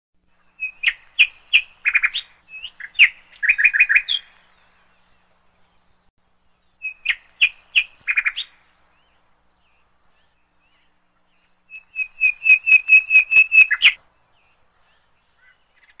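A small songbird singing three separate phrases of quick, high chirps and short trills, with pauses of a few seconds between them. The last phrase is a run of about a dozen rapid, evenly repeated notes.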